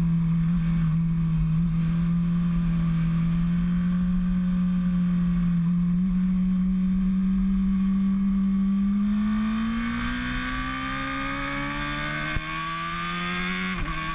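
Racing motorcycle engine under way on a track, holding a steady note and then rising in pitch as it accelerates from about nine seconds in, with a gear change near the end that briefly drops the note.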